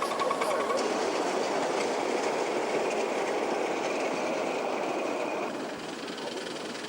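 Live-steam model locomotive running on its track: a steady rushing noise that eases slightly about five and a half seconds in.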